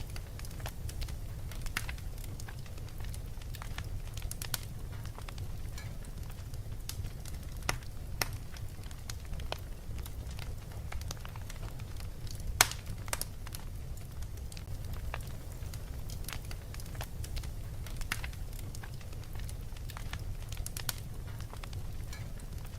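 Fireplace fire crackling: irregular sharp pops and snaps over a steady low rumble, with one louder pop about halfway through.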